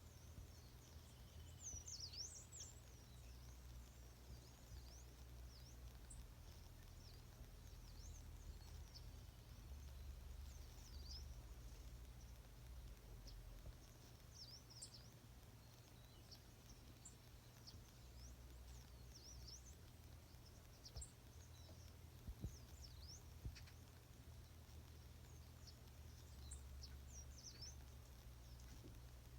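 Faint morning birdsong: many short, high chirps and twitters from several birds, scattered throughout, over a steady low rumble.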